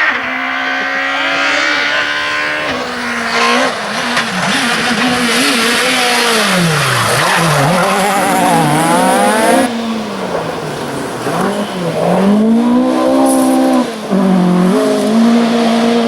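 Rally car engine at full throttle on a stage, its pitch climbing and dropping again and again through gear changes and lifts, with tyre noise. The sound changes abruptly about ten seconds in and again near fourteen seconds.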